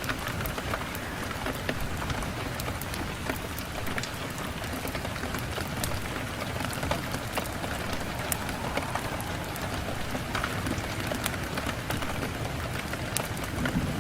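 Steady rain falling on a window pane, an even hiss dotted with many small sharp drop clicks.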